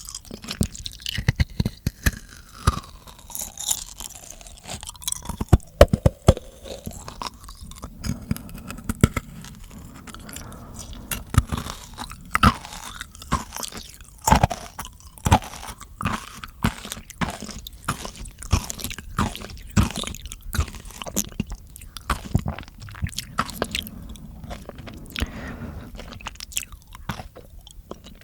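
Close-miked mouth sounds: a dense, irregular patter of wet tongue clicks, smacks and crunchy chewing noises.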